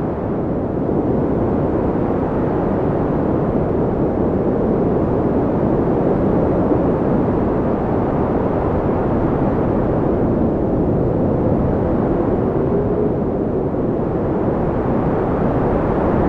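Steady wind blowing as a deep, even rush, with a faint whistling tone that rises and falls about two-thirds of the way through.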